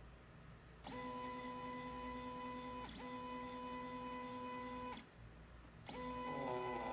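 Kelant Orbeat D100 3D printer's stepper motors whining at a steady pitch through two moves of about two seconds each, then pausing. A third move starts about six seconds in, joined by a wavering, shifting sound.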